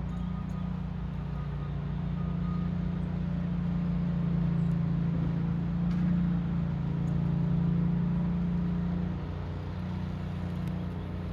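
Steady low engine hum that swells and eases slightly, with a faint dip near the end.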